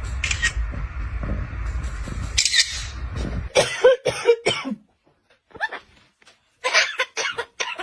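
Rustling, rumbling noise close to the microphone for about three and a half seconds, with two short hisses. Then a green parrot gives a run of short, pitch-bending squawks and chatter.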